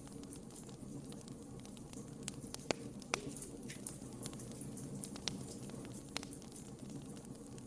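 Wood fire burning in a fireplace: scattered sharp crackles and pops over a steady low rumble of the flames, the loudest pops about three seconds in.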